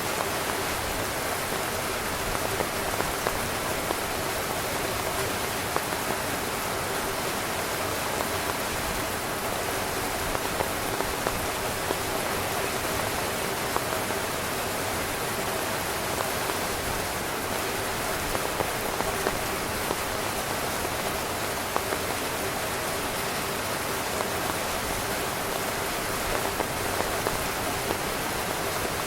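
Steady rain falling on a tent: a dense, even hiss with scattered louder single drops.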